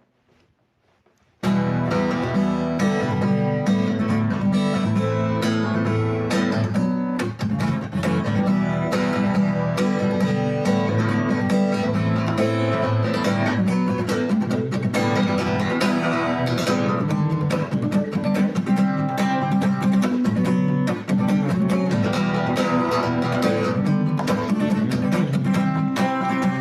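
Acoustic guitar strummed in a steady rhythm, playing a song's instrumental intro; it comes in suddenly about a second and a half in after near silence.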